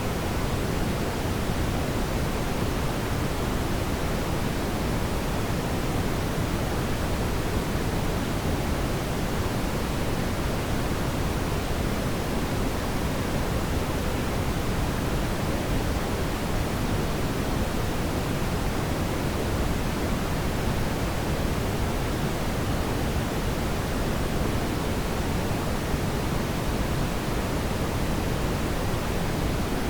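Steady brown noise: an even, deep hiss with most of its weight in the low end and softer highs, unchanging throughout.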